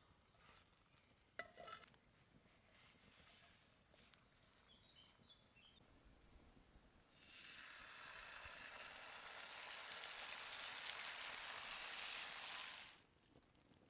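Vegetables sizzling in a sauce in a hot pan. The sizzle starts a little past halfway, after a short quiet stretch with a faint click, holds steady, then cuts off suddenly near the end.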